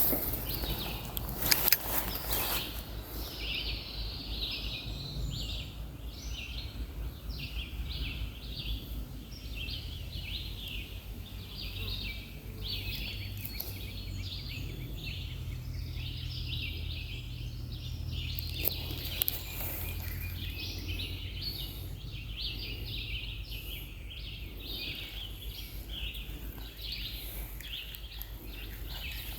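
Outdoor ambience: short high chirping calls repeating a few times a second, over a steady low rush. A few sharp clicks come near the start and again about two-thirds through.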